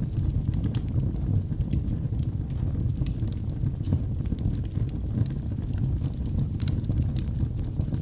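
Wood fire burning in a fireplace: a steady low rumble of flames with frequent, irregular crackles and pops from the burning wood.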